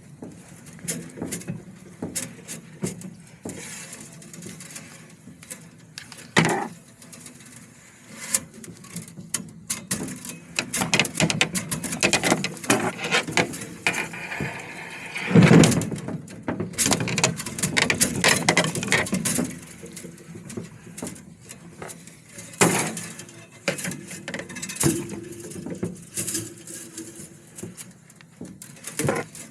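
Hand work on fence wire: irregular clicks, clinks and knocks as the wire is cut and fed through, with a few louder knocks along the way.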